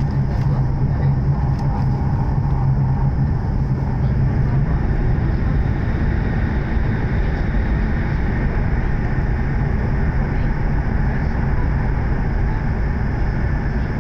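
E7 series Shinkansen at speed, heard from inside a passenger car: a steady running rumble of wheels, track and air. A low hum fades out about five seconds in.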